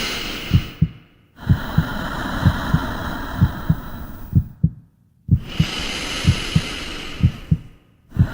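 Heartbeat sound effect: low double thumps about once a second over a steady hissing drone. It cuts off abruptly twice to silence, then comes back.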